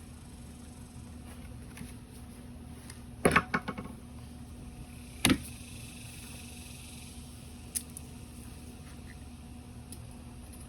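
Metal pieces knocking together as they are handled: a quick rattling cluster of clanks about three seconds in, then a single sharp clank that rings on briefly, and a light click later. A steady low hum runs underneath.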